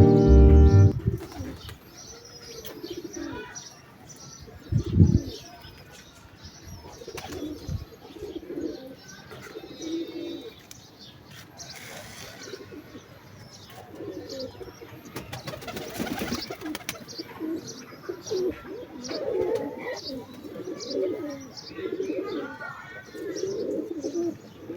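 Pigeons cooing over and over, the cooing growing busier in the second half, with higher chirps among them. A loud thump about five seconds in and a couple of short rustling bursts, like wing flaps.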